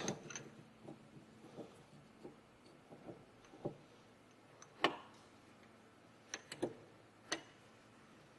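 A few light, irregular wooden clicks and taps, the loudest about five seconds in, from the wooden sphere and tool being handled at the lathe.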